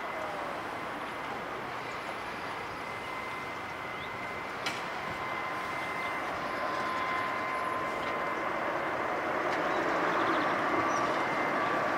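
Jet airliner engines: a steady rushing noise with a faint high whine, slowly getting louder over the last few seconds.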